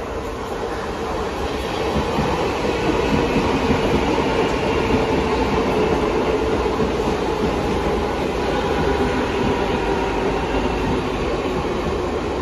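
Mumbai Central Railway suburban EMU local train running past close by along the platform. It grows louder over the first two seconds as the coaches come alongside, then holds a steady running noise with a held hum.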